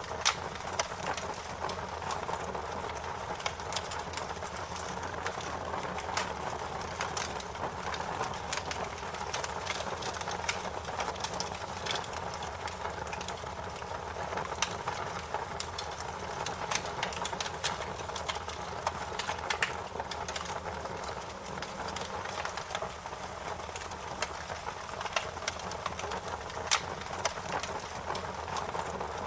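Fire crackling, with frequent irregular sharp pops and snaps over a steady hiss.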